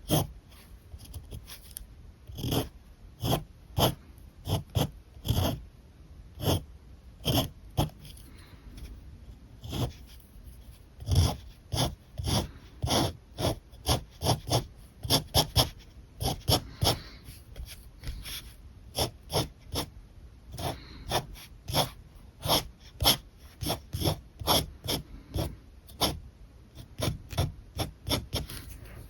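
A dog barking over and over in short, irregular bouts, one to three barks a second.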